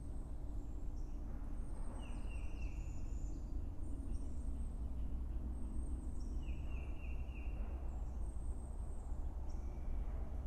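Wild birds singing: a phrase of a few quick falling notes comes twice, with thin high calls and short downward sweeps above it, over a steady low rumble.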